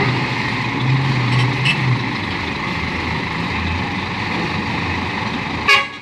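Heavy diesel engine of a Komatsu PC220-6 excavator running under load as it climbs onto a low-bed trailer, a steady low hum for the first couple of seconds. A brief sharp sound near the end.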